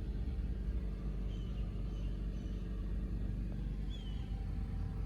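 A steady low rumble with no speech, and a few faint, short, high chirps about a second in and again near four seconds.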